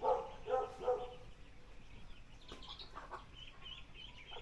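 Domestic chickens clucking, three short calls in the first second. Faint high chirps follow near the end.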